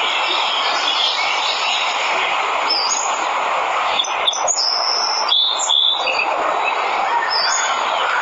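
Steady rush of falling water from a waterfall, with short, high bird calls and chirps over it from about three seconds in.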